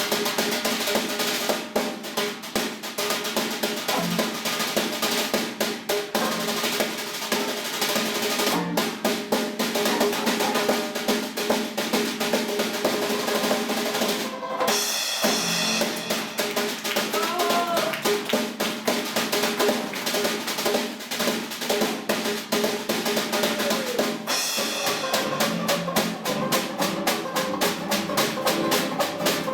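Drum kit played with rapid snare strokes and rolls, with bass drum, against music underneath; the strokes come thickest near the end.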